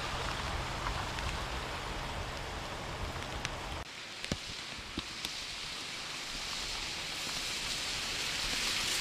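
Heavy rain falling on a street: a steady hiss with scattered sharp drop hits, growing louder near the end. A low steady hum under the first half stops suddenly about four seconds in.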